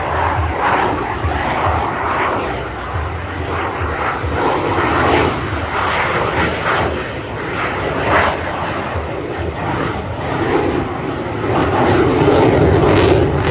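Twin jet engines of a Blue Angels F/A-18 Super Hornet flying the slow, nose-high High Alpha Pass: a loud, rough, crackling jet roar that grows louder and deeper near the end.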